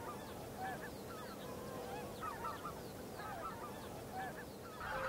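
A large flock of greater white-fronted geese calling: many short, overlapping high-pitched yelps, faint throughout and growing a little louder near the end.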